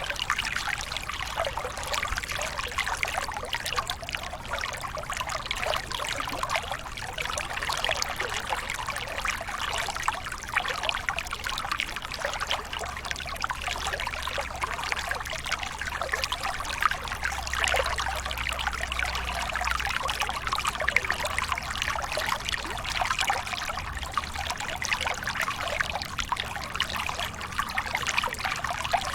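Waterfall: water pouring and splashing, a steady rush with fine spatter and no break.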